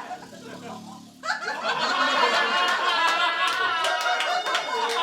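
Audience laughter that breaks out about a second in and carries on, with a few claps beginning near the end.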